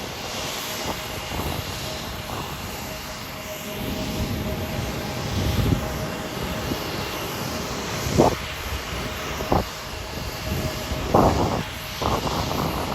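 Jet airliner engines running steadily on the ground, a continuous hum of noise with a faint steady whine. A few short, louder bumps of noise break through about eight and eleven seconds in.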